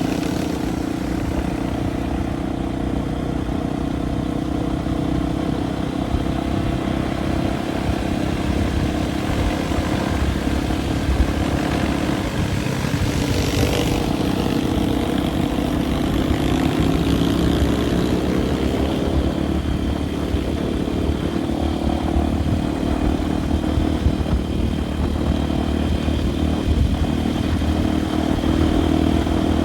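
Dirt bike engine running steadily under way, its pitch rising and falling a little around the middle, with a few knocks from the bike over rough ground.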